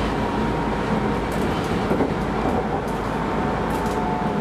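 Keisei Line electric commuter train running, heard from inside the car: a steady rolling rumble with a faint steady whine and a few brief high hisses.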